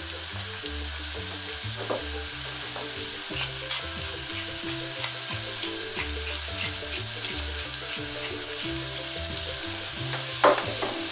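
Diced pumpkin sizzling as it fries in butter and shallot in a pan, with a spatula scraping and stirring through it and a pepper mill grinding over it. A sharp knock about ten seconds in.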